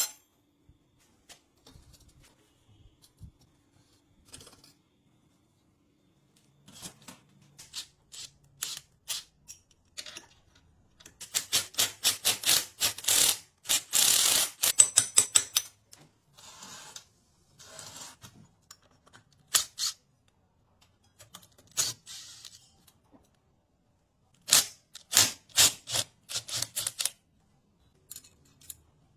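Hand tools clicking and tapping on metal engine parts: scattered sharp clicks, with a dense run of rapid clicks in the middle and another short burst near the end.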